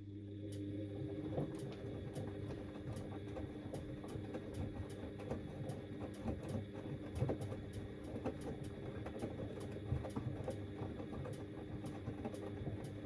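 Front-loading washing machine's drum motor starting up and turning the drum, a steady motor whine with irregular knocks and clicks from the tumbling load.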